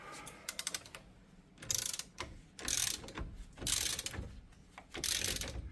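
A hand ratchet clicking through four strokes, about one a second, as it turns the forcing screw of a bearing hub removal tool. The tool is pressing a seized front wheel bearing hub out of the knuckle.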